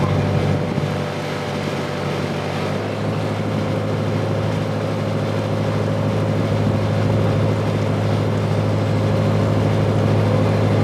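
Sightseeing boat's engine running steadily, heard from inside the passenger cabin as a low hum. The engine note settles slightly lower about two to three seconds in.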